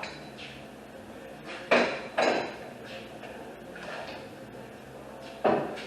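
Three sharp metal clanks, two close together about two seconds in and one near the end, from a wrench with a pipe cheater bar being worked on the bolts that hold the front subframe to the body.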